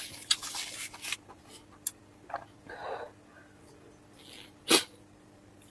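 Close-miked eating sounds: a slurp in the first second, then scattered wet mouth clicks and smacks, and one short, sharp burst of breath about three-quarters of the way through.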